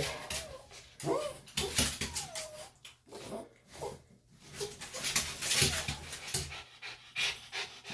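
Senior Bichon–Shih Tzu cross whimpering and whining in short, wavering cries that rise and fall, in protest at being held while his ear is worked on, with rustling and scuffing from the handling.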